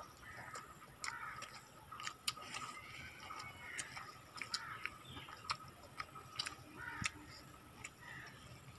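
Two people chewing rice and fried chicken, with irregular sharp clicks and smacks of mouths and lips.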